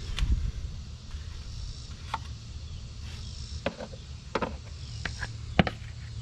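Irregular light clicks and knocks, with the sharpest a little past five and a half seconds in, over a steady low rumble, from hand work on the engine's parts.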